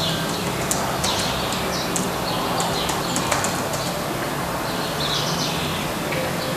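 Small birds chirping on and off over a steady background hiss.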